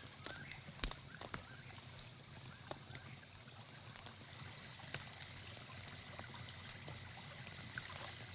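Faint ambience of trickling water, with scattered light clicks.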